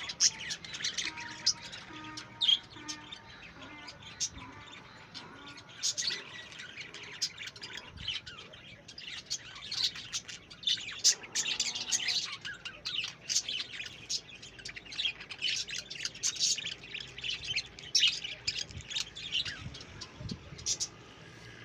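A flock of budgerigars chirping and chattering in a breeding cage, with many short, high chirps overlapping throughout.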